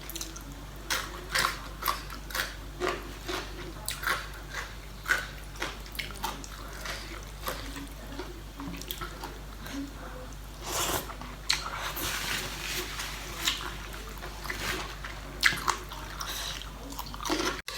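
A person eating spicy seafood papaya salad close to the microphone: chewing and mouth clicks in a quick, irregular series, with a longer hissing rush about eleven seconds in.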